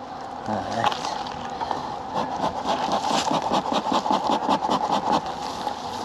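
Honeybees buzzing steadily around an opened hive, with repeated scraping and knocking of a hive tool on the wooden frames.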